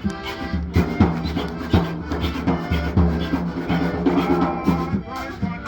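Live Bahamian rake-and-scrape band music: held accordion chords over a steady, thumping drum beat, with a bright scraping rhythm on top.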